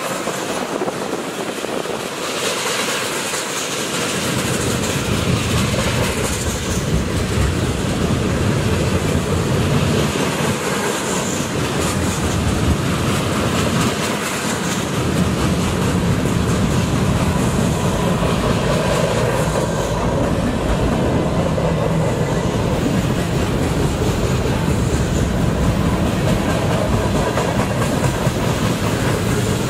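Freight cars of a manifest train rolling past at speed: steel wheels running on the rails, a steady loud rolling noise.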